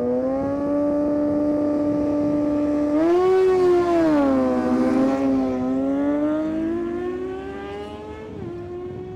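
High-revving superbike engine on a drag run. Its pitch holds high and steady, wavers and dips about three to five seconds in, then climbs slowly again before dropping off sharply near the end.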